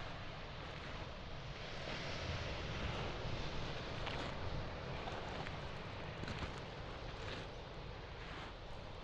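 Waves washing onto a pebble shore with a steady surf rush that swells for a couple of seconds, with a low wind rumble and a few scattered crunches of footsteps on pebbles.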